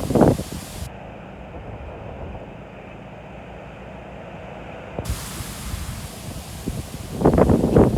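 Gusty wind blowing across the microphone, with hard buffeting gusts right at the start and again near the end.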